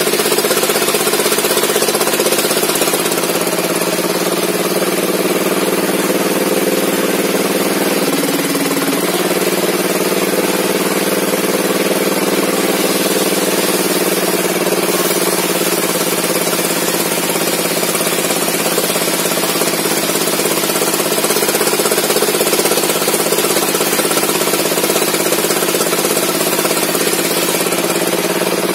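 Engine of a sawmill running steadily, the sound wavering slightly, with a brief change in pitch about eight seconds in.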